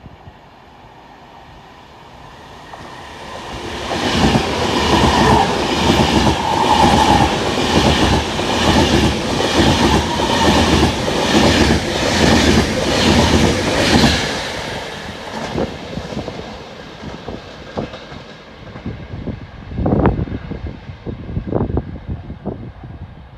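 A train passing along the platform, its wheels clacking rhythmically over the rail joints, about two clacks a second. It builds up, runs loud for about ten seconds, then fades away, with a few short low rushes near the end.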